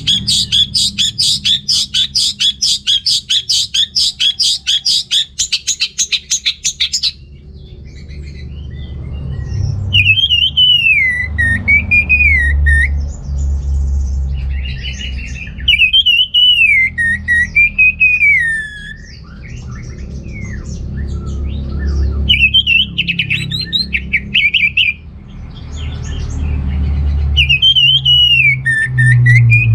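Orange-headed thrush singing: a fast run of rapidly repeated chirps for the first several seconds, then a series of looping, warbled phrases a few seconds apart, over a low rumble.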